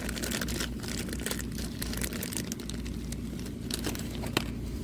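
Crinkling and rustling with many small irregular clicks as old and new rubber engine seals are handled and flexed, over a steady low hum.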